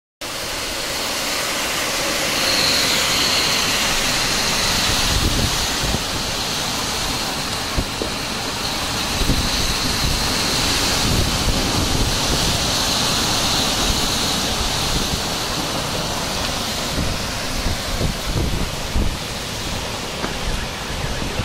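Heavy rain pouring steadily in a thunderstorm, a dense even hiss, with low rumbles coming and going underneath.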